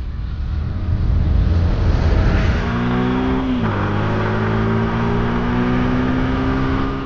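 A motor vehicle engine running under load. Its pitch rises slightly, then drops sharply a little over three and a half seconds in, and it runs steady after that.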